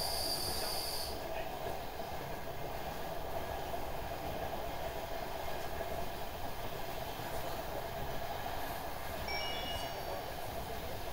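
Steady rumble inside a DR1AMv diesel multiple-unit passenger car running at speed. A high steady tone sounds for about the first second, and a few faint short high tones come near the end.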